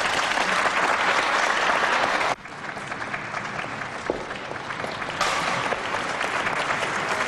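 Audience applauding. The clapping drops suddenly to a lower level about two seconds in, then picks up again a little past halfway.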